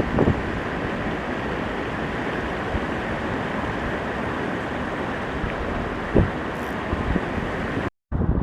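Steady outdoor rushing noise like wind on the microphone, with a couple of soft knocks, about six seconds apart; it cuts off suddenly near the end.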